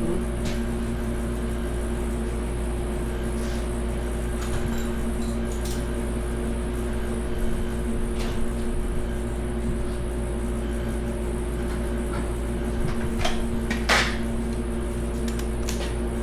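Scattered metal clinks and knocks of hand tools and parts being worked off an engine, over a steady hum; the loudest knock comes about fourteen seconds in.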